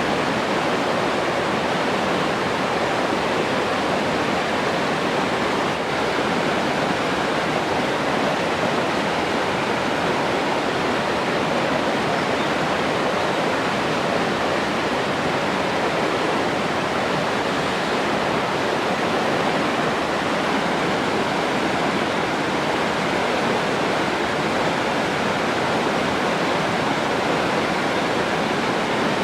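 Steady rushing water, an even unbroken wash of noise like a waterfall or fast stream.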